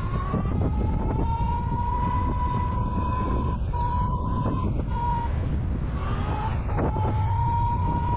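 Monday Motorbikes Gateway 500 W electric bike's motor whining under full throttle. The whine rises in pitch at the start, then holds steady at speed, dipping briefly a few times. Heavy wind rumble on the microphone runs underneath.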